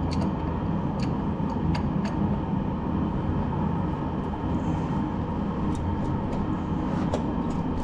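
Toyota MR2 (SW20) four-cylinder engine running steadily, with a few sharp clicks over it.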